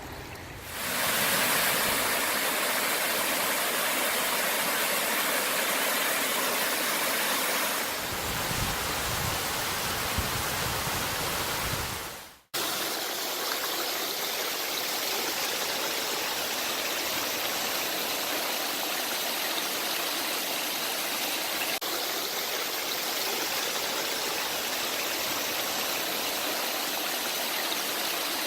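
Seasonal rain-fed waterfall rushing steadily, an even hiss of falling water. The sound drops out suddenly for a moment about halfway through, then carries on unchanged.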